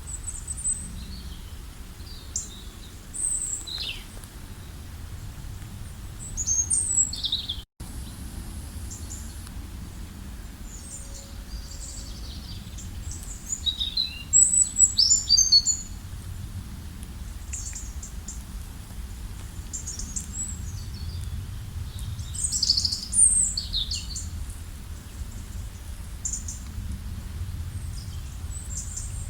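Several wild songbirds calling and singing in short, high chirps and trills, busiest in three flurries, over a steady low rumble. The sound cuts out for an instant about eight seconds in.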